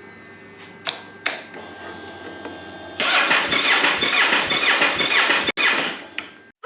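Yamaha R3's electric starter cranking its parallel-twin engine in a rapid, even pulse, starting about three seconds in after a couple of sharp clicks, with the battery run low from the bike standing parked.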